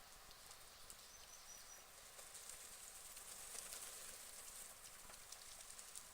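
Faint pond ambience: scattered light ticks and a soft high hiss that swells in the middle, with a brief run of four short high chirps from a small bird about a second in.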